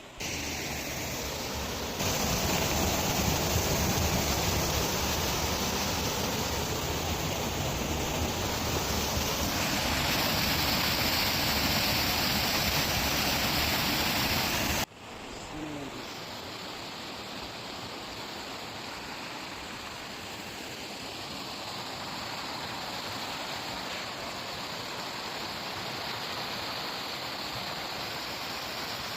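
Steady rush of flowing water from a stream, loudest in the first half, then cutting off suddenly about fifteen seconds in to a quieter, thinner hiss of water.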